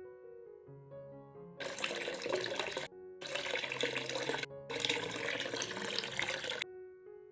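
Water gushing from a small DIY model water pump in three spells, each a second or more long, starting and stopping abruptly. Background music with a melody plays throughout.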